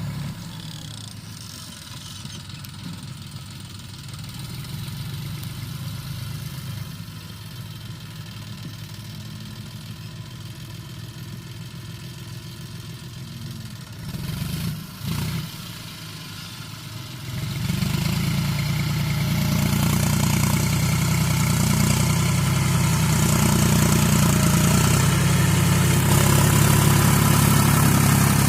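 Tractor diesel engine running at low revs, with two short bursts of throttle a little past the middle. About two-thirds of the way in it revs up and keeps running louder.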